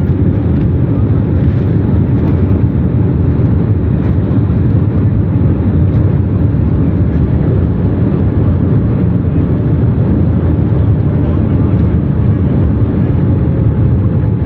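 Jet airliner cabin noise: a loud, steady low rumble of engines and airflow.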